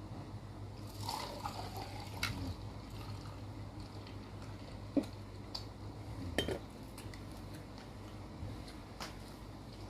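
Tableware sounds during a meal: scattered clinks and taps of a spoon against a plate or glass over a steady low hum.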